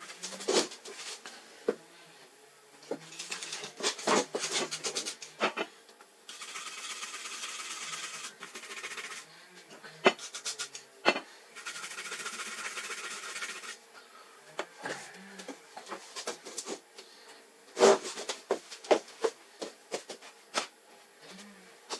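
Small clicks and knocks of tools and parts being handled on a workbench, with two steady hisses of about three seconds each, one near the middle and one just after.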